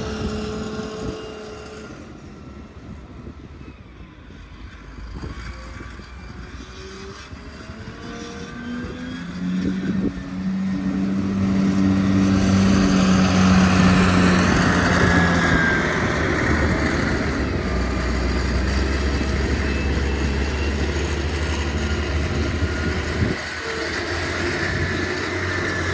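An engine running steadily, quieter at first and growing louder from about ten seconds in.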